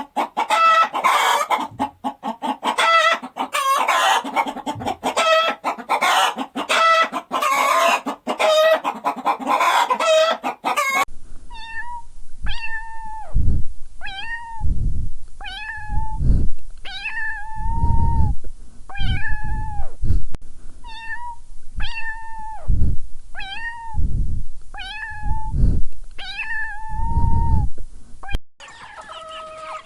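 A kitten meowing over and over, about once a second, each meow short and fairly high, taking over from a dense, clattering noise that fills the first eleven seconds or so.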